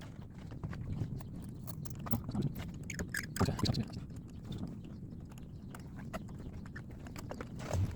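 Irregular clicks, taps and rustling of hand tools and parts being handled on a car engine, busiest about three to four seconds in.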